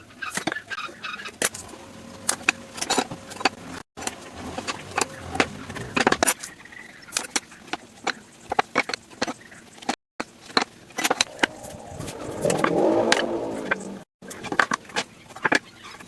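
Irregular sharp clicks and knocks, broken by abrupt cuts, with a louder rushing noise for about two seconds near the end.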